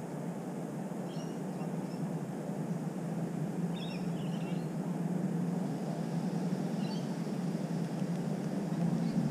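A few short, faint bird chirps, about a second in, around four seconds in and near seven seconds, over a steady low background rumble.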